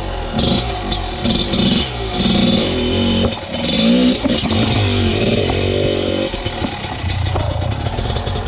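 Enduro motorcycle engine blipped in short throttle bursts, with a rising and falling rev near the middle, then settling to a steady idle.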